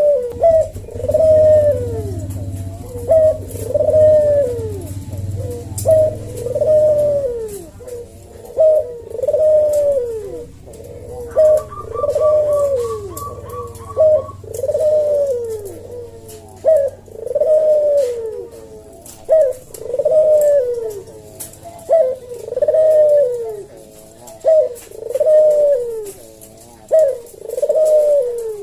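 Javanese puter dove giving its slow, repeated 'kuk deruk' coo, one falling coo about every second and a half. A low hum runs under the first few seconds, and a short string of high pips comes about midway.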